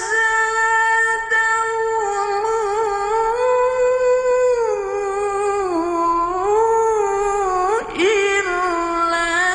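A single high voice singing long, held notes that slide slowly down and up between pitches, with a brief break and a quick upward swoop about eight seconds in.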